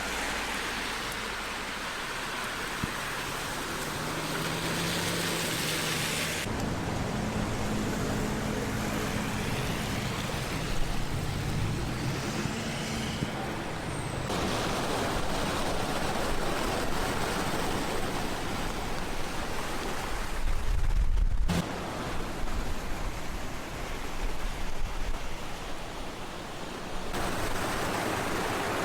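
Road traffic: vehicle engines running under a steady rushing noise, in a string of short clips whose sound changes abruptly at each cut.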